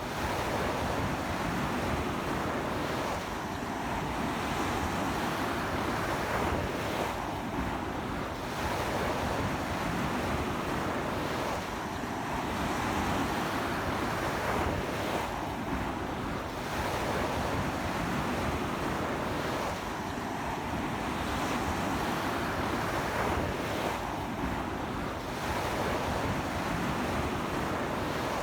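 Sea waves breaking and washing on a beach in a strong sea wind, a continuous surf that swells and eases every four seconds or so, with wind buffeting the microphone.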